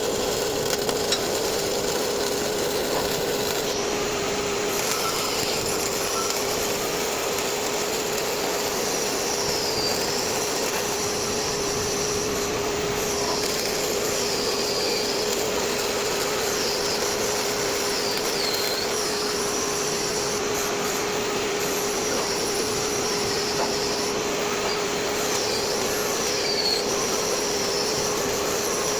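MIG welding: a steady hiss from the welding arc, with a steady hum underneath.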